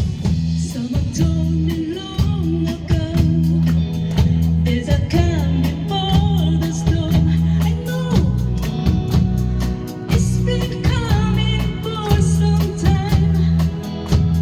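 Live band playing a mid-tempo rock song: a singer's voice over drum kit, electric bass and guitar, with cymbal strokes keeping an even beat.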